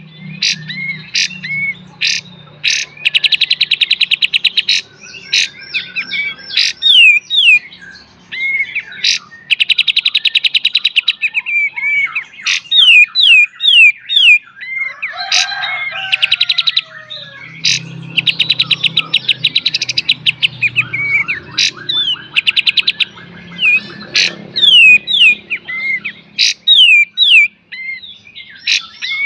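A kapas tembak songbird singing loudly and continuously, alternating fast rasping stuttered rattles of a second or two with sharp, repeated downward-sweeping whistled notes — the 'beset' and 'tembak' song types bird keepers prize.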